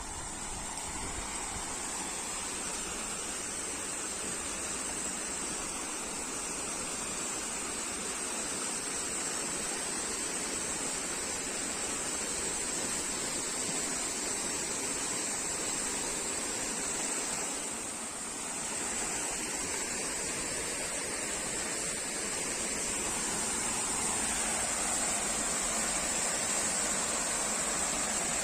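Waterfall: a steady rush of falling water, dipping briefly about two-thirds of the way in and a little louder over the last few seconds.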